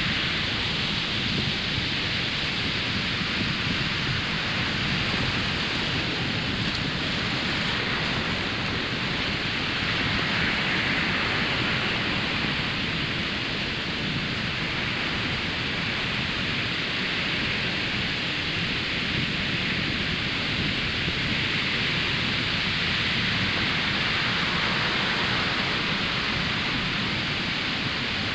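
Ocean surf breaking on a sandy beach: a continuous wash of noise with a low rumble beneath, swelling gently twice.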